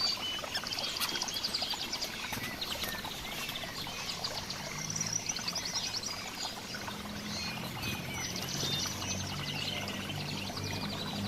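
Several small songbirds chirping and calling at once, with many quick high chirps and rapid trills overlapping. A faint low steady hum joins about halfway through.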